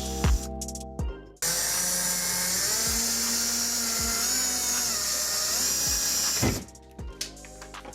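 Power drill running steadily for about five seconds, its motor pitch wavering slightly, with background music with a beat before and after it.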